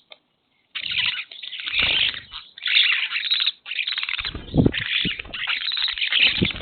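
Birds calling and chattering in a dense, busy stream that starts about a second in, with a few low thumps underneath.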